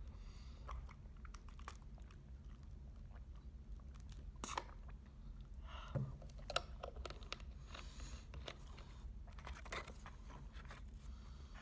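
Close-up eating sounds: quiet chewing and crunching, with scattered light clicks and taps of wooden chopsticks against the food container, a few sharper ones about four and six seconds in.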